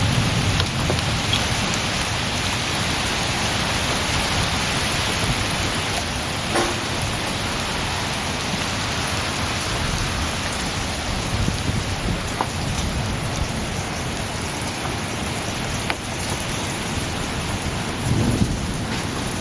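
Heavy thunderstorm rain pouring steadily, with a low rumble of thunder fading away at the start and another building near the end.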